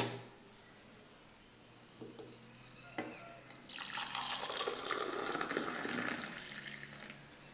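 Hot milk being poured into a cup of coffee, a hissing pour lasting about three seconds, preceded by a light clink.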